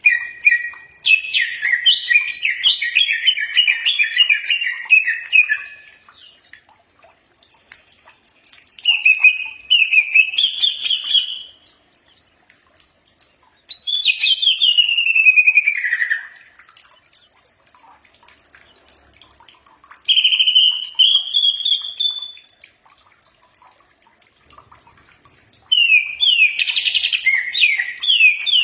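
Cucak ijo (green leafbird) singing in five separate bouts of rapid whistled notes a few seconds apart. Some phrases rise in pitch and one slides down.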